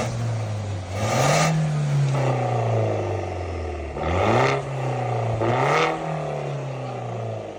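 BMW 118i engine revved through its valved exhaust back box and resonator delete, with the exhaust valve closed. The revs climb from idle and fall back twice, with a third surge near the end of the second rev.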